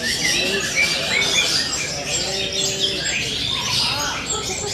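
Long-tailed shrike (cendet) singing a fast, varied song of short chirps and glides, the mimicked elements this bird is shown for, over a dense mix of other birdsong, with a few lower held whistle notes.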